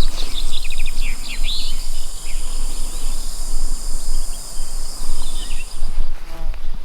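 Steady high-pitched insect buzzing and chirring that stops near the end. A quick run of bird chirps comes about a second in, with a low rumble underneath.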